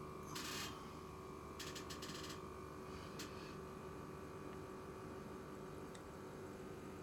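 Faint steady electrical hum, with two brief bursts of hiss in the first couple of seconds and a single click a little after three seconds in.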